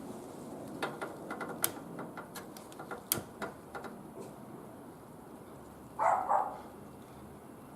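Wood fire crackling in a barbecue grill, with a quick run of sharp pops and snaps over the first few seconds. About six seconds in comes a brief, louder call-like sound in two quick parts.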